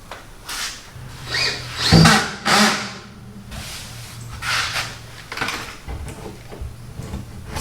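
Power drill-driver running in several short bursts, with knocks and handling clatter between them.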